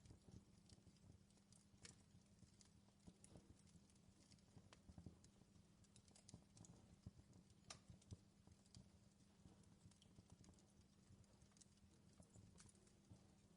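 Faint crackling of a wood fire in a fireplace: irregular small pops and snaps over a low steady hum.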